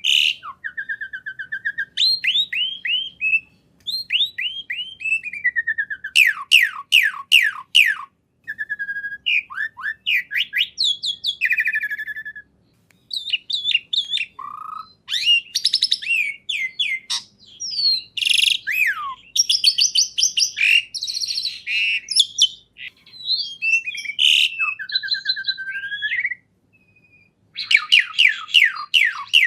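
A songbird singing a varied song of quick repeated downward-sliding notes, trills and whistles, in phrases broken by short pauses.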